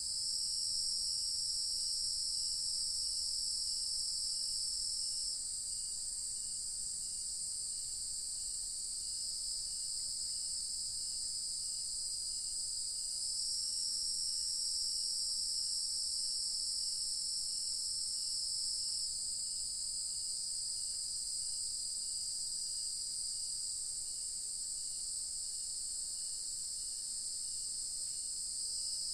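Dusk chorus of crickets and other insects: a continuous high-pitched trilling drone that shifts slightly in level a few times. Beneath it, a fainter chirp repeats about one and a half times a second.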